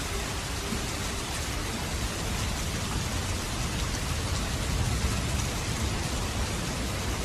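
Steady rain falling, an even hiss with a low rumble beneath and scattered drops pattering on surfaces.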